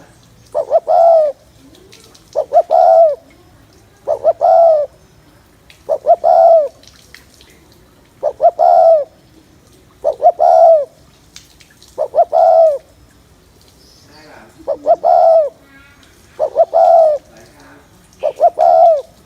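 Spotted dove cooing: a phrase of two or three quick short notes ending in a longer coo that falls away at the end, repeated about every two seconds, ten times.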